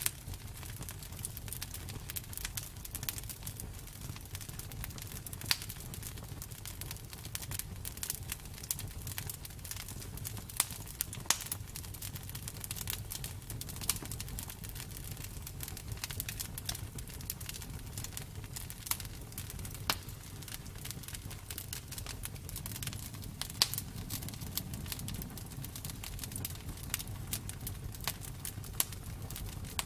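Campfire burning: wood crackling and popping in irregular sharp snaps, a few louder pops, over a steady low rumble of the flames.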